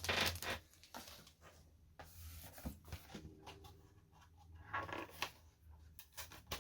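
Trading cards and booster-pack packaging being handled: soft rustles and scrapes in a few short bursts.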